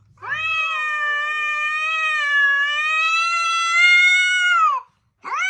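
Domestic cat giving one long, drawn-out meow of about four and a half seconds that holds its pitch and drops at the end, followed by a short rising meow near the end.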